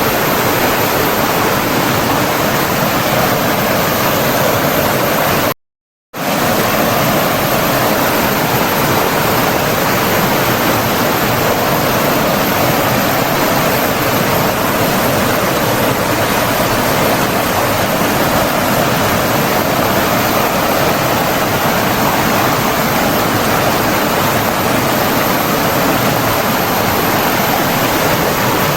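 Running water rushing steadily, a dense even wash of sound like a stream or waterfall. Around six seconds in it cuts out abruptly to silence for about half a second, then returns unchanged.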